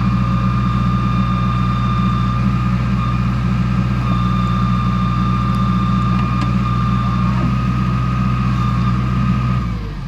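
Heavy diesel engine running steadily, with a steady high whine above it. Near the end the engine note drops away and falls in pitch.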